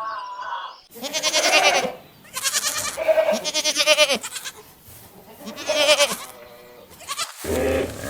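Goats bleating: several loud, quavering bleats, the first starting about a second in after a hard cut from a different sound. Another sound cuts in near the end.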